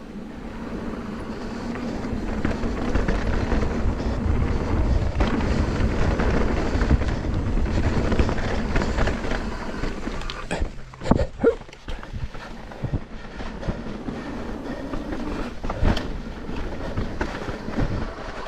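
Mountain bike descending a trail: a steady rumble of tyres rolling over the trail surface, mixed with wind and rattling from the bike. A cluster of sharp knocks comes a little past halfway, as over rough ground or a landing, and one more knock follows later.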